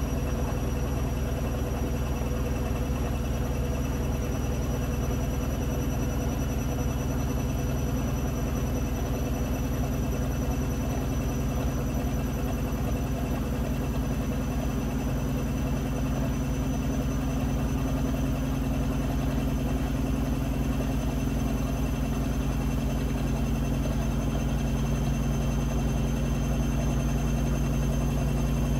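Blomberg Granat 3200 washing machine spinning: the drum motor runs continuously with a steady hum and whir, its pitch creeping slowly upward in the second half as the drum gathers speed.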